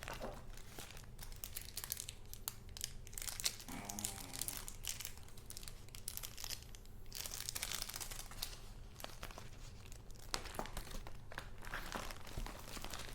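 Paper goods of a handmade junk journal being handled: crinkling and rustling paper, with many short sharp clicks and taps throughout.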